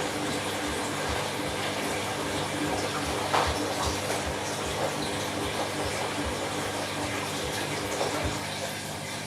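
Candy washing machine running an empty bleaching wash: water rushing and splashing in the drum, with soft low thumps recurring, quieter from about eight and a half seconds in.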